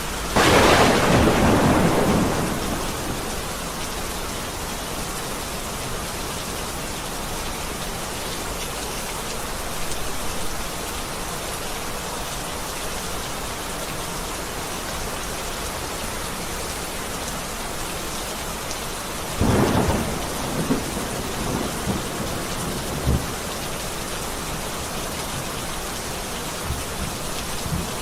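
Heavy rain falling steadily, with a loud thunderclap just after the start that rumbles away over about two seconds. A second clap of thunder comes about twenty seconds in, followed by a few smaller cracks.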